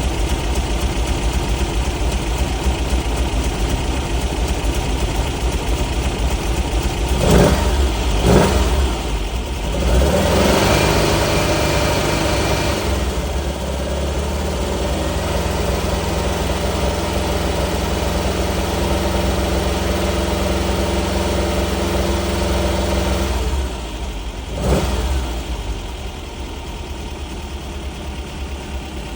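The engine of a 1955 Porsche 550 Spyder replica by Beck idling just after a cold start. Two quick throttle blips come about seven and eight seconds in, and the revs are held up briefly around ten seconds before it settles to a steady idle. A further blip near the end is followed by a lower, quieter idle.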